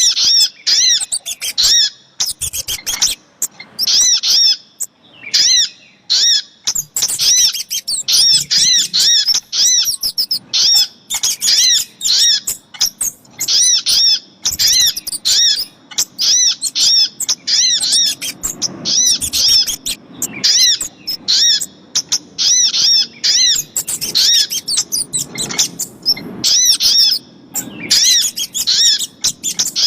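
Bird-lure recording of sogok ontong (little spiderhunter) and kemade calls: loud, high, sharp chirping notes repeated in rapid, dense series.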